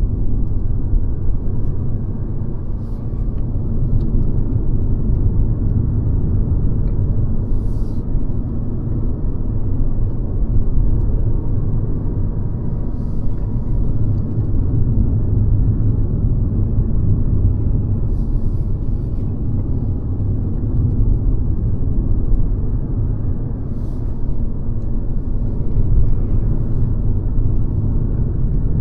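Mercedes-Benz C-Class (W206) driving, a steady low rumble of engine and road noise, with a few faint brief ticks now and then.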